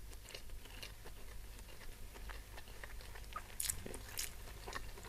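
Faint close-miked chewing of spicy beef and rice with the mouth closed: soft wet mouth clicks, with a couple of sharper crisp ticks a little past halfway.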